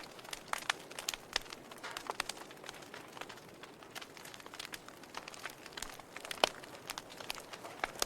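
Wood fire burning in a fireplace, crackling with irregular sharp pops over a soft hiss; the loudest pop comes about six and a half seconds in.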